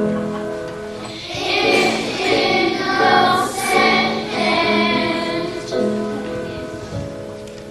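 Children's choir singing, holding long notes, the song growing quieter near the end.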